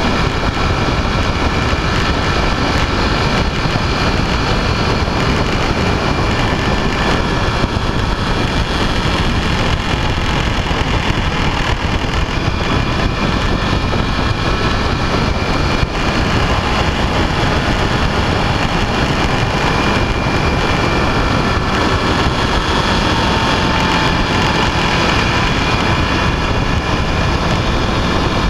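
Motorcycle on the move: a steady engine and road roar heavily overlaid by wind rushing over the microphone, with a faint engine whine that dips briefly in pitch about two-thirds of the way through.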